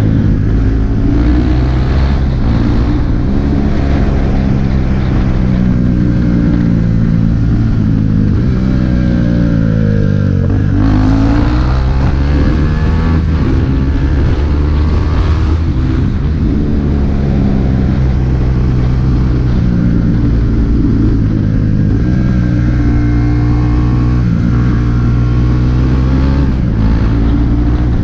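KTM RC 390's single-cylinder engine through an Akrapovič exhaust, ridden on the road. Its pitch falls and rises as the rider rolls off and opens the throttle, with the deepest dip about ten seconds in before it climbs again.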